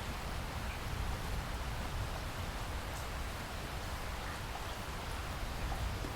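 Steady rainfall: a constant hiss of heavy rain with a low rumble underneath and a few faint individual drop ticks.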